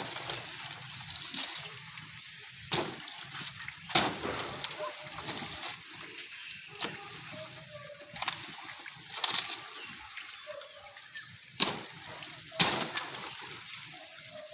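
Water and wet mud splashing and sloshing, broken by about seven sharp knocks or cracks at irregular intervals.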